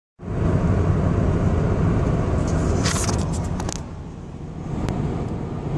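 Car cabin road noise while driving: a steady low rumble, with a few brief clicks and rattles in the middle.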